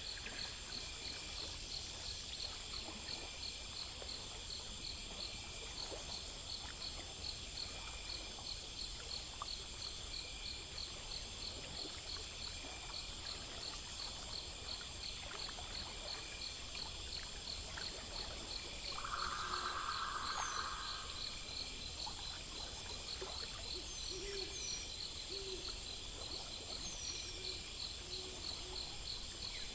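Night chorus of crickets and other insects chirping steadily in fast, even pulses. About two-thirds in there is a brief louder rasping call, and near the end a few soft, low hooting calls.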